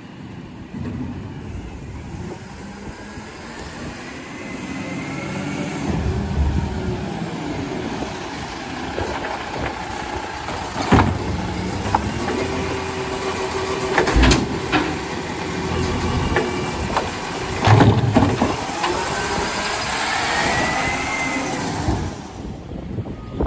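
Garbage truck at work: engine running while its hydraulics whine, rising and falling in pitch, with three loud bangs through the middle as a bin is handled and emptied.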